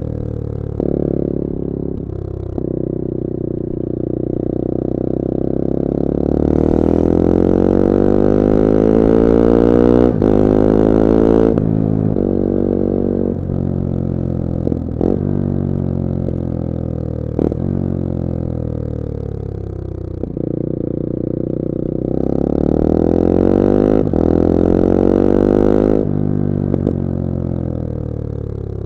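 A 250cc four-stroke motorcycle engine under way. The revs climb, ease off and fall for several seconds, then climb again, with a few sharp clicks in between.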